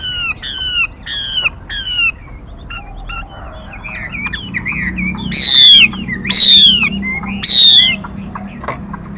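Female mi songbird calling: a run of short chirps sliding downward, about three a second, then softer scattered notes, then three loud, harsh calls that sweep downward, about a second apart.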